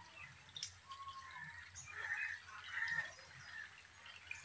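Faint bird chirps and calls, scattered short notes with a brief whistled note about a second in, and one soft click about half a second in.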